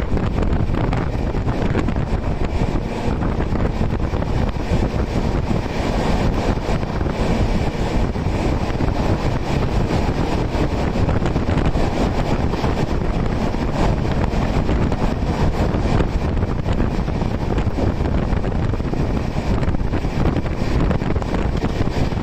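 An express passenger train running at high speed, with a steady rush of wheel-and-rail noise and air rushing past the coach. Heavy wind buffets the microphone.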